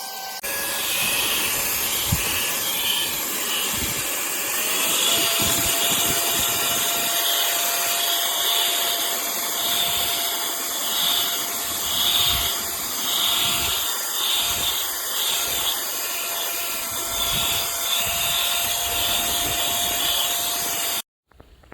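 Tiazhan cordless handheld vacuum's motor running with a steady high whine over a rushing hiss. Its pitch steps up slightly about five seconds in, a few low knocks sound during the run, and it cuts off suddenly near the end.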